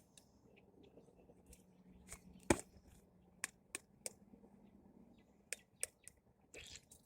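Scattered small sharp clicks and taps from close handling, with one louder click about two and a half seconds in, over a faint steady low hum.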